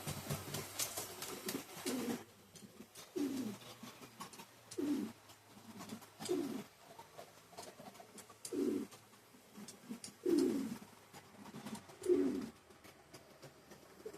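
A dove or pigeon cooing, a short falling coo repeated about every one and a half to two seconds, about seven times, over faint ticking and a low hum.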